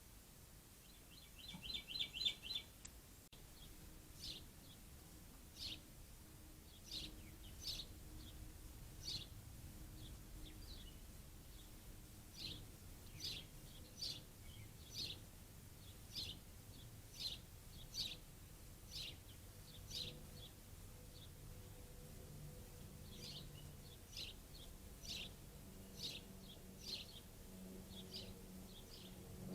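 A songbird calling: a quick trill of high notes about two seconds in, then sharp, high chip notes repeated roughly once a second, over faint outdoor background noise.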